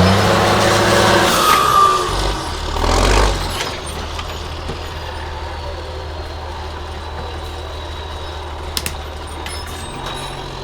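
Heavy off-road trial truck's engine running loud at high revs for the first two seconds, with a short squeal and a hiss of air about three seconds in, then settling into a steady low idle. A couple of sharp clicks near the end.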